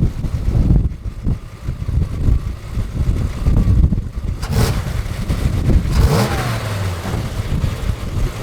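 Large car engine idling with a deep, uneven rumble, revved up briefly about six seconds in.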